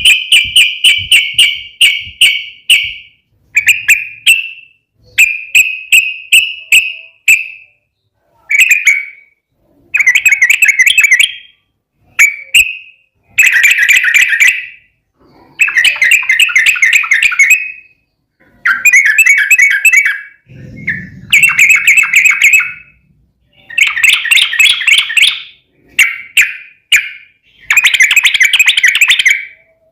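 Yellow-vented bulbul (trucukan) singing in repeated bursts of rapid, bubbly chattering notes, each phrase a second or two long with short pauses between. A brief low rumble comes about two-thirds of the way through.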